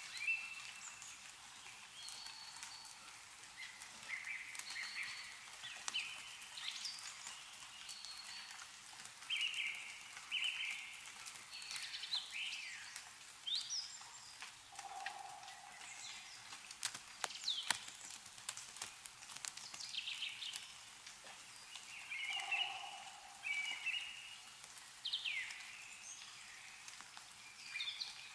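Several small birds chirping throughout, with short repeated notes and quick downward-sliding calls, and a lower call twice, at about halfway and later. Scattered drips of meltwater fall from snowy trees underneath.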